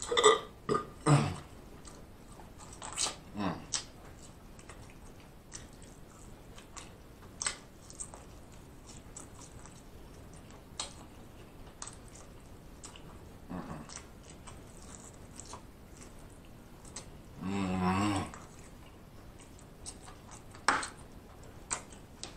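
Close-up eating sounds: scattered wet smacks and clicks of chewing as meat is bitten off a barbecue rib. About eighteen seconds in comes one short, low throat sound, the loudest thing in the stretch.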